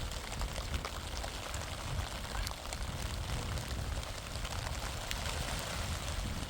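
Steady rain falling, with many scattered drops ticking sharply over an even hiss and a low rumble underneath.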